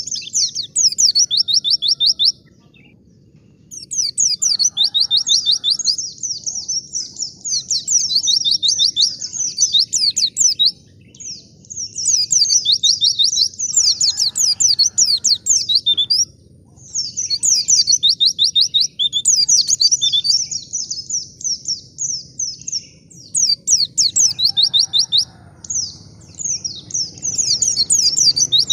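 A white-eye (pleci) singing in long runs of fast, high twittering notes, broken by brief pauses between phrases.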